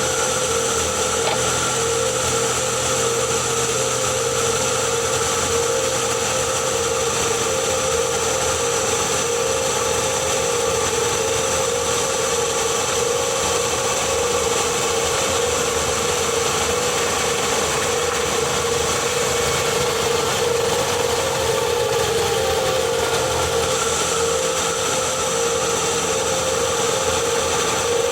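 2021 Ford Kuga plug-in hybrid's HF45 e-CVT transmission, heard close up from the gearbox casing, making a steady rotational whine over its running noise, with a strong even tone. The owner traces the sound to the gearbox and suspects motor generator 1. He first noticed it after the flywheel was changed.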